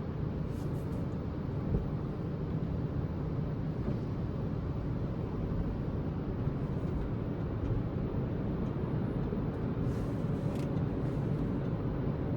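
Steady rushing noise of an automatic car wash in operation, heard from inside the car, with a few faint brief hisses.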